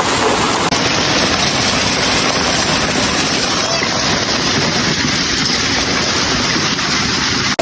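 Heavy hail and rain pelting down, a steady, dense hiss.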